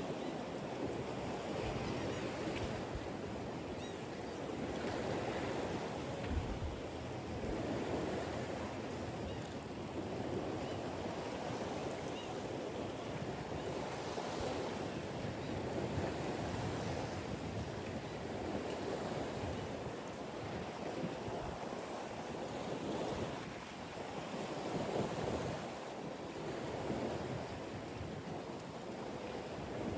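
Waves washing below a fishing pier, a steady wash that swells and eases every few seconds, with wind gusting on the microphone.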